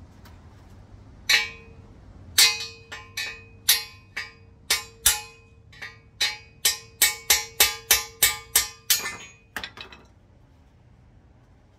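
Hammer tapping on a metal gearbox part, about two dozen sharp strikes that each leave a short metallic ring, slow at first and then quickening to about three a second before stopping.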